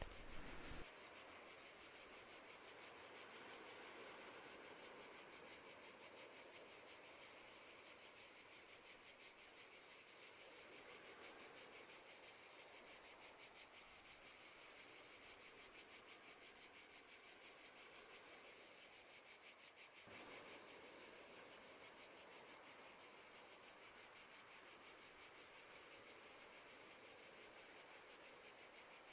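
Faint chorus of crickets chirping steadily, a fast, even pulsing.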